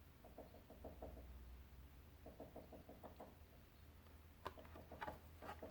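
Near silence: faint room hum with a few soft taps and clicks.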